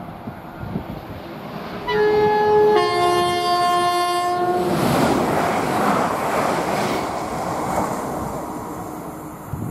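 Electric train horn of a London Midland Class 350 multiple unit, sounded as two notes: a short higher one, then a lower one held about two seconds. Then the train runs past with a loud rush of wheels on rail that slowly fades.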